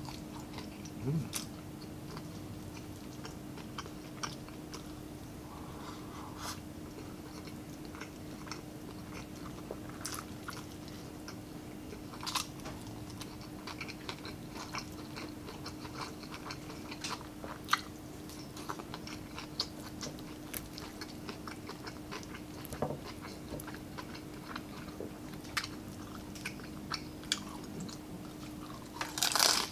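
Close-up mouth sounds of a man eating crispy deep-fried pork and stir-fried cabbage: soft scattered chewing and smacking clicks, then a loud crisp crunch near the end as he bites into the crackling pork.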